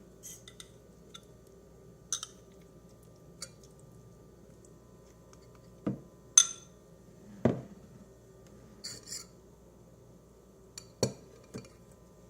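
Dishes and cutlery being handled: scattered sharp clinks and light ticks with three dull knocks, the loudest a single sharp clink a little past halfway.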